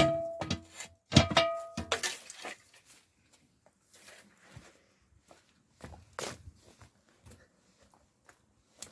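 Metal cover or door being closed over the mouth of a wood-burning ondol firebox: two ringing metallic clanks about a second apart and a short scrape, followed by a few faint knocks.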